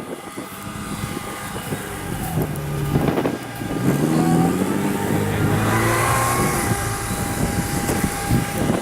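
Engine of a 4x4 off-road vehicle revving: the pitch climbs about three seconds in, then holds at high revs.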